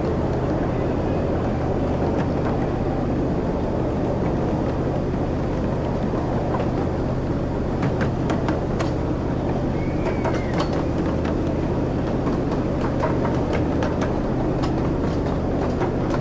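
A ride-on train rolling along its track, a steady rumble with a low engine hum, joined from about halfway by a run of sharp clicks and clacks.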